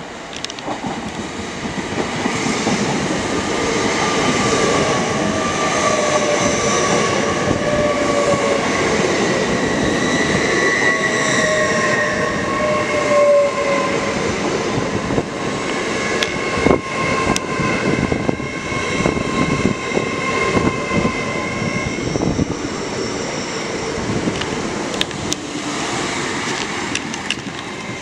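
Hitachi Class 800 Azuma bi-mode train, unit 800104, running into the platform and slowing. Whining tones slowly fall in pitch over a rolling rumble, with clicks of the wheels over rail joints.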